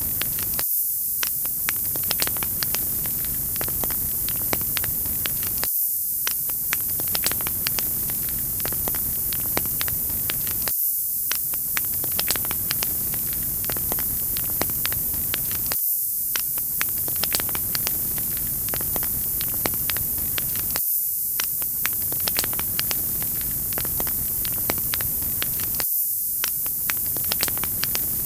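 Wood fire in a fireplace crackling: many small sharp pops and snaps over a steady hiss. The recording repeats about every five seconds, with a brief dip at each restart.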